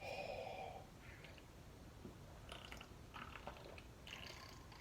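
Short soft slurp as cold chicken noodle soup is sucked through a straw during the first second, then faint swallowing and small clicks.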